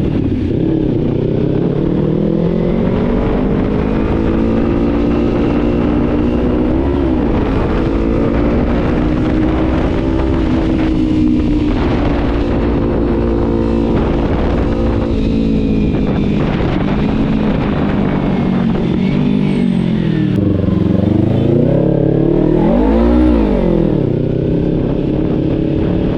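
Kawasaki Z300 parallel-twin engine running under way, its pitch climbing and falling with throttle and gear changes, with a quick sharp rev blip near the end. Wind rush on the helmet-mounted microphone underneath.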